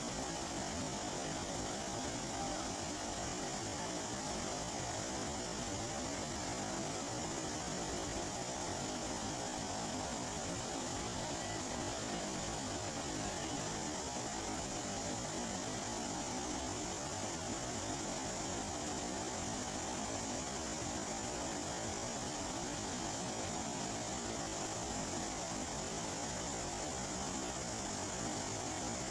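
Steady rain falling on open floodwater, an even hiss that doesn't change.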